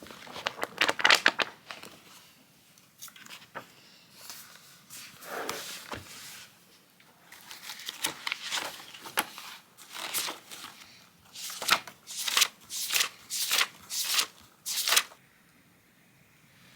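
Crinkling and rustling of something being handled, ending in a run of about six short, sharp strokes roughly half a second apart.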